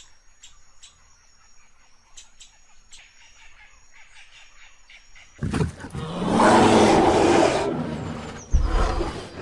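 A loud, rough call from a large wild animal begins about five seconds in and lasts about three seconds, then comes again briefly near the end. Before it there is only a faint background with a thin steady high tone and scattered clicks.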